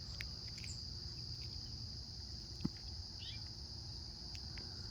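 Steady high-pitched insect chorus, with a few faint bird chirps and a single light click partway through.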